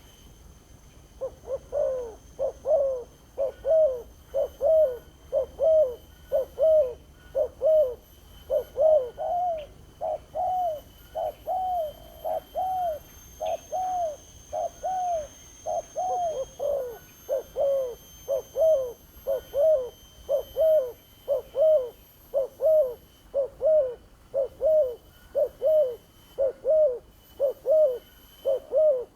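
Spotted dove (tekukur) cooing: a long unbroken series of short coos, about one and a half a second, starting about a second in.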